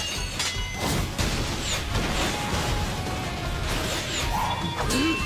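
Anime battle soundtrack: dramatic background music layered with fight sound effects, several sharp impacts and whooshes.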